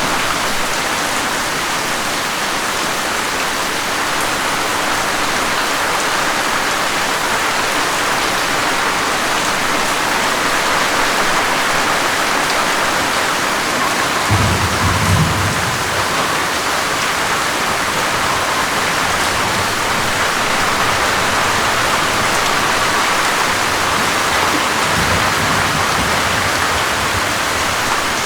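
Steady, even rain hiss throughout. Brief low rumbles come twice, once about halfway through and more faintly near the end.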